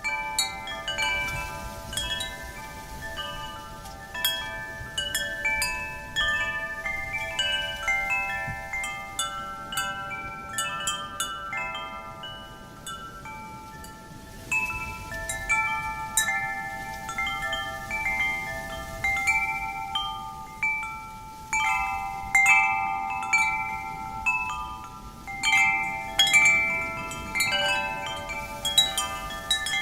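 Wind chimes ringing as the wind moves them, struck irregularly so that many overlapping notes sound together and die away, over a low rush of wind.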